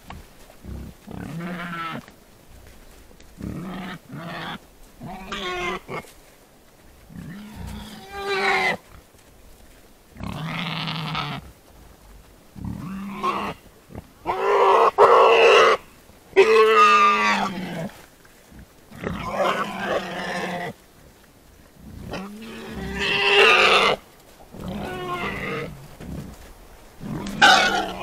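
Wild boar calling: a string of separate grunts and squeals, each about a second long, with short pauses between them and the loudest calls near the middle.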